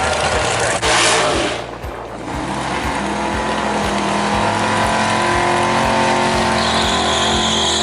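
Drag-racing car engine at high revs: a loud blast about a second in, then a steady high-revving engine note, with a high whine joining near the end.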